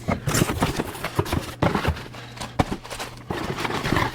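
Irregular knocks, taps and rustles of packaging and parts being handled while a box is unpacked, over a steady low hum.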